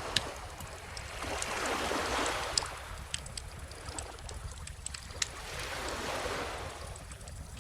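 A wood bonfire crackling with frequent sharp pops and snaps, over calm ocean waves washing in twice, swelling to peaks about two and six seconds in and then falling back.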